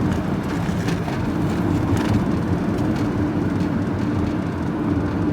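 Engine and road noise inside a moving vehicle's cab: a steady drone with a constant low hum and a few faint rattles.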